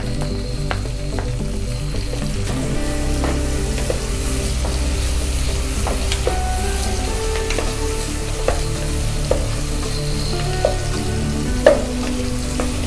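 Chopped onions and tomatoes sizzling in hot oil in an aluminium pot while a wooden spatula stirs them, with occasional knocks of the spatula against the pot, the loudest near the end.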